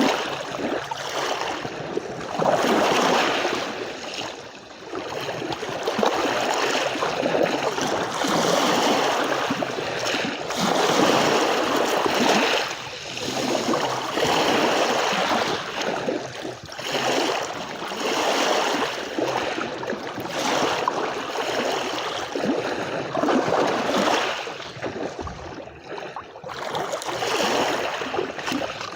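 Sea waves washing onto a beach one after another, each surge swelling and fading within a second or two.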